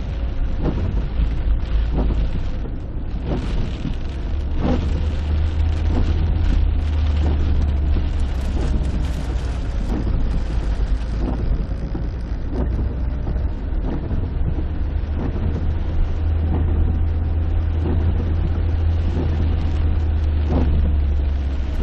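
Wind buffeting the microphone in a thunderstorm: a loud, steady low rumble, with irregular taps about once a second.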